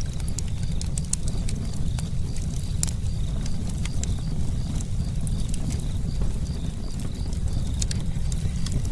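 Campfire crackling: irregular sharp snaps and pops of burning wood over a steady low rumble.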